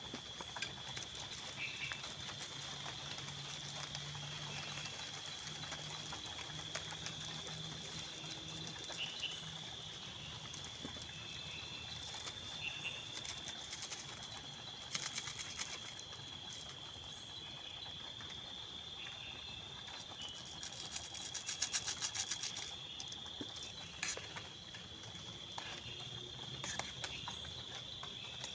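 Insects chirring steadily in one unbroken high-pitched note, with scattered short chirps and a quick run of clicks about three-quarters of the way through.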